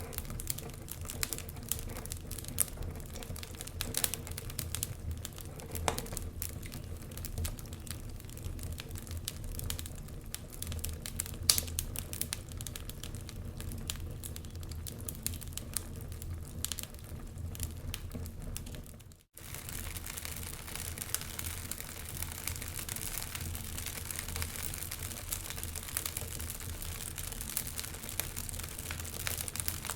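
Wood fire crackling in a fireplace, with irregular small pops and snaps over a low steady rumble. The sound cuts out for a split second about two-thirds of the way through.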